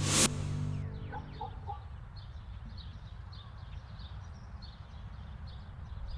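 A brief loud hit at the very start as the film's background music ends within the first second. After that comes outdoor ambience with a bird calling over and over in short high notes, about two a second.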